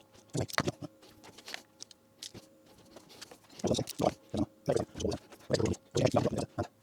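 Irregular small clicks, snaps and crackles from hand work on small parts at a workbench, sparse at first and busier in the second half, over a faint steady hum.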